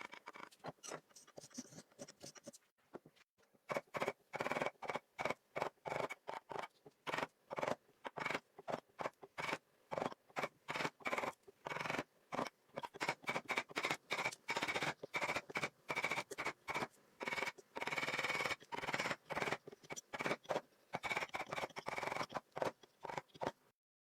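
Hand tool cutting and scraping wood in quick, irregular short strokes. A few at first, then dense runs of strokes from about three seconds in, cutting off abruptly just before the end.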